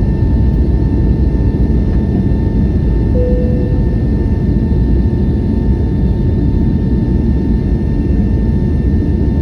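Airbus A321neo jet engines and airflow running steadily: a constant low rumble with a steady whine above it. A brief short tone sounds about three seconds in.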